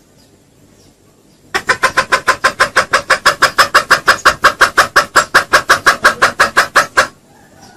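Junglefowl clucking in a fast, even series of about six clucks a second, starting about a second and a half in and stopping abruptly near the end.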